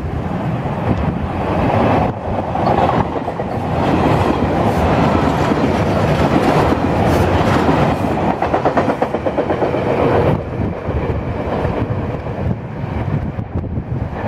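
SEPTA Regional Rail electric commuter train running past close by, a steady rush of wheels on rail. In the middle it has a run of rhythmic clickety-clack as the wheels cross rail joints.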